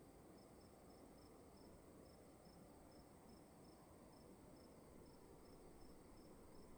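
Faint crickets chirping in an even rhythm, about three chirps a second, over a steady high trill and low room hiss.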